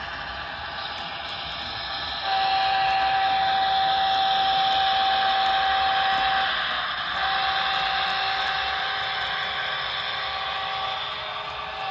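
Two long, steady whistle blasts over a constant hiss. The first lasts about four seconds and the second, slightly quieter, starts after a short break.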